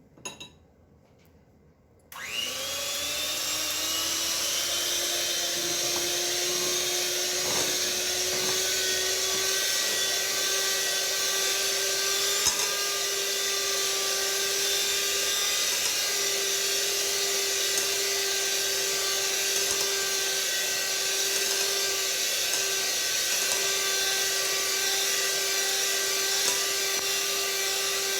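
Electric mixer switched on about two seconds in, its motor whine rising in pitch as it spins up and then running steadily at medium speed while beating cake batter. A few faint knocks sound along the way.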